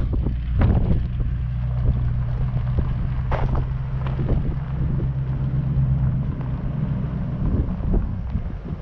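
1969 Ford Mustang's engine running at a steady speed as the car drives off. The drone weakens near the end as the car gets farther away, with wind buffeting the microphone and a few short knocks.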